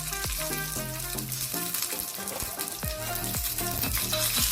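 Curry leaves and dry red chillies sizzling in hot oil for a tempering, with background music that has a steady beat.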